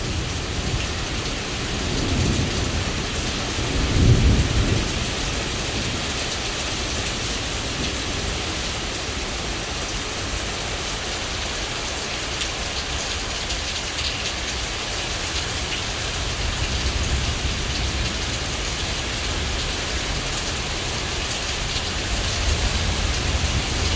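Heavy rain pouring steadily in a thunderstorm, with a low rumble of thunder swelling about four seconds in.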